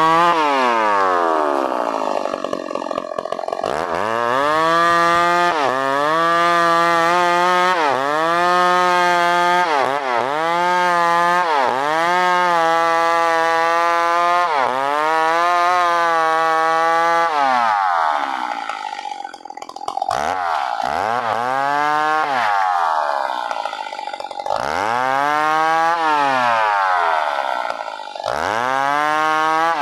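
New West PRO 888 two-stroke chainsaw running at high revs while cutting wood. Its engine pitch drops and climbs back again and again, about every two seconds, as the chain loads up in the cut and frees; the dips grow deeper and slower in the second half.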